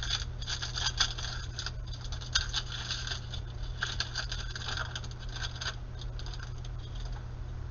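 Glossy trading cards sliding and flicking against each other as a pack of Panini Prizm basketball cards is flipped through by hand, in clusters of crisp scrapes that thin out after about six seconds, over a steady low hum.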